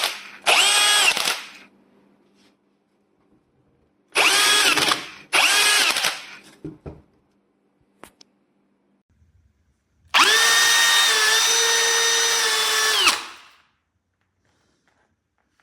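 Einhell TP-CD 18/80 brushless cordless drill-driver motor whining in three short trigger pulls, then running for about three seconds, spinning up and winding down each time.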